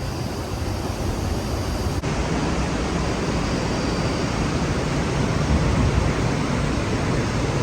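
Epupa Falls on the Kunene River: rushing water giving a steady, dense hiss, with wind buffeting the microphone as a fluctuating low rumble.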